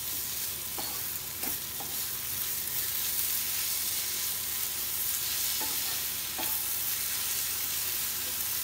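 Grated raw mango and sugar frying in mustard oil in a metal pot over a low flame: a steady sizzle, with a spatula stirring through it and scraping against the pot a few times.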